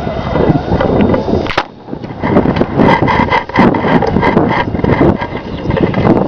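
Loud, rough engine of a mud-bog truck running hard, dropping off briefly about one and a half seconds in, then coming straight back up.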